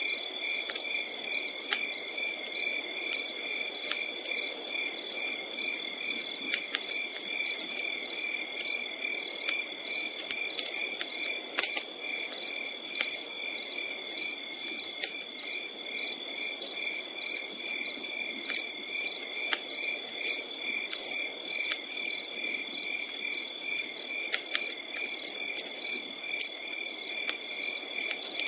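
Crickets chirping in a steady night chorus: a constant high trill with a regular pulsing chirp. Over it, a campfire crackles with scattered sharp pops.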